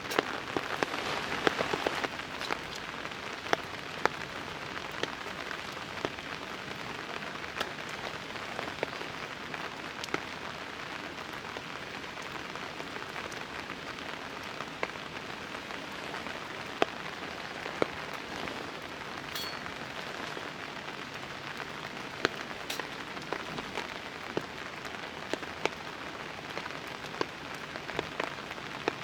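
Rain falling on a tarp: a steady hiss of rain with scattered sharp ticks of single drops striking the fabric, a little louder for the first couple of seconds.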